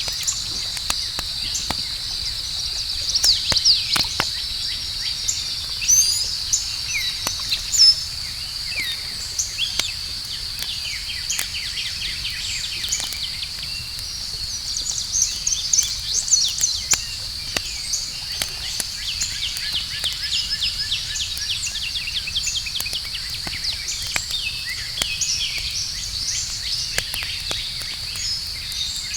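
Campfire crackling in sharp, scattered pops over a steady, high-pitched drone of night insects such as crickets, with bird chirps and short trills coming and going throughout.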